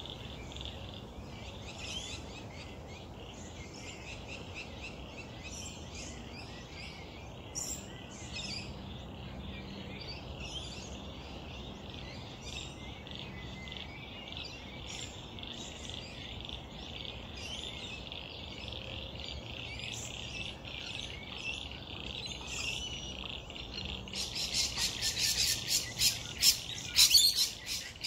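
Wild birds chirping and calling over a steady, high-pitched pulsing chorus. About 24 seconds in, a much louder run of rapid, repeated bird calls starts close by.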